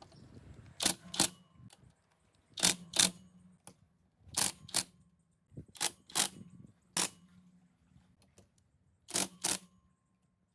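Sharp metallic taps or clicks, mostly in pairs about a third of a second apart, repeating every second and a half or so, some with a short ring after them.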